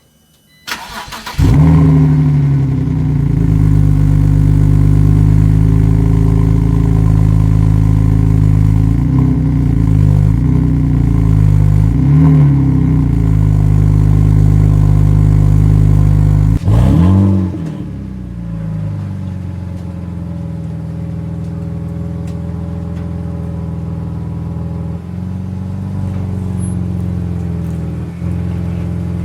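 BMW E85 Z4's straight-six engine cranking briefly and catching about a second in, then running at a steady fast idle with a few small pitch bumps. About 17 seconds in it gives a short rev, then runs on steadily and quieter.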